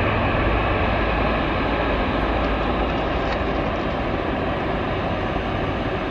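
Steady vehicle running noise, a low rumble with hiss above it, easing slightly in level.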